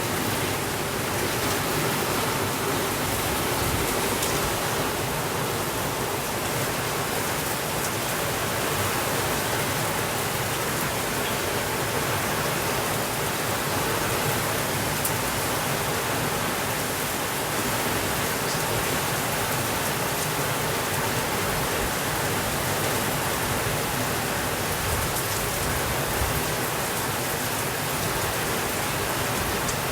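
Heavy rain falling steadily on a window, an even, unbroken hiss.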